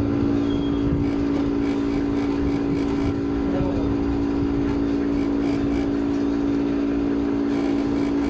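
Steady low hum held at one pitch, with a rough rumble beneath it.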